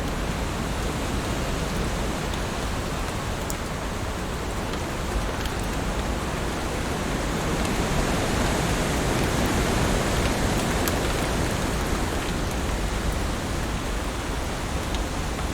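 Heavy rain falling on leaves: a dense, steady hiss that swells slightly about halfway through, with a few sharper drop ticks.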